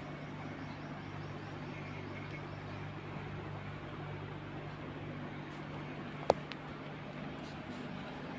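Steady low mechanical hum, with one sharp click about six seconds in.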